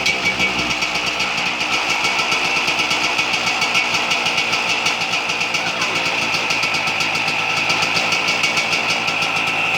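250 cc two-stroke motocross bike engine idling steadily just after being started, with a fast, even firing beat and no revs.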